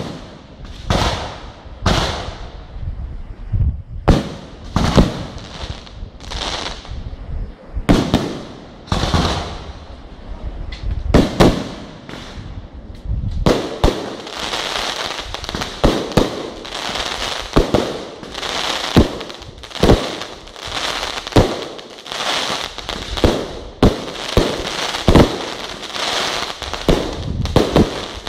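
Fireworks display: aerial shells going off with a sharp bang every second or two, each trailing off. From about halfway through, a continuous crackle runs under the bangs.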